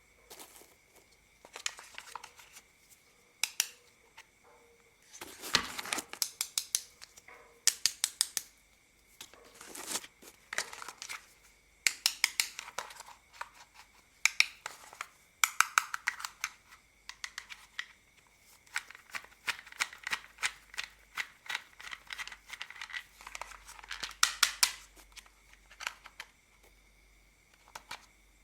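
Plastic toy car being unscrewed and taken apart by hand: clusters and quick runs of sharp plastic clicks and rattles with short pauses between.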